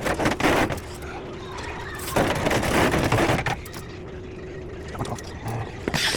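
Rustling and handling noise from snack packaging while a snack vending machine is restocked: a short burst at the start and a longer one about two seconds in, over a steady low hum.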